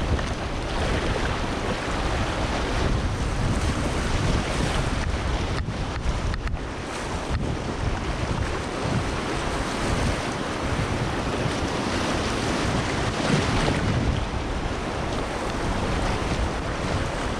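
Fast river water rushing and splashing around a kayak, with wind buffeting the microphone as a steady low rumble.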